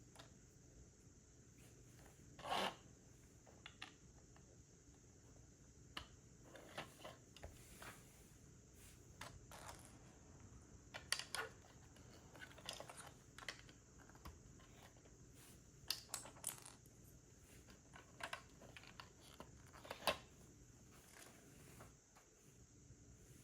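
Plastic Lego pieces being handled during a build: scattered, irregular small clicks and rustles as bricks are picked up, sorted and pressed together.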